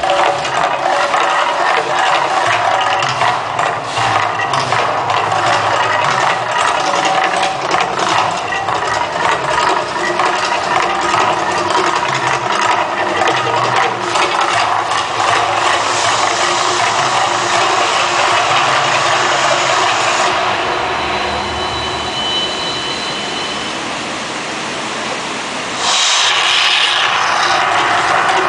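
The Mirage volcano show's eruption sound, a loud, dense rumble of amplified effects and fire bursts. It eases for a few seconds and comes back suddenly near the end.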